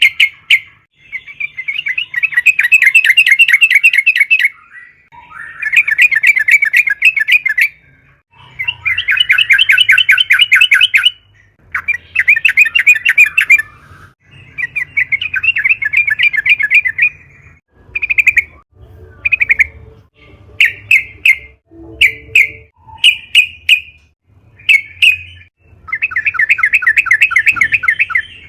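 Yellow-vented bulbul singing: a run of long, rapid chattering trills of two to three seconds each, then a string of short separate notes, and one more long trill near the end.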